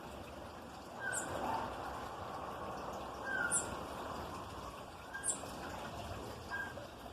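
Small songbirds calling: short, very high chips about every two seconds, with a few fainter lower notes, over a steady background hiss.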